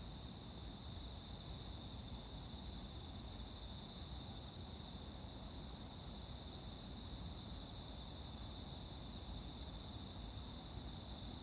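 Chorus of singing insects holding a continuous, steady high-pitched trill, with a second, still higher ring above it and a low rumble underneath.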